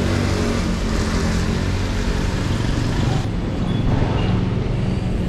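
Road traffic noise heard from a moving bicycle: a steady rumble of vehicles on the road, its upper hiss thinning out about three seconds in.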